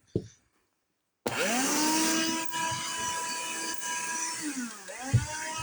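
A handheld vacuum cleaner's motor is switched on about a second in and whines up to a steady high pitch. Near the end the whine dips and climbs back up, with a thump.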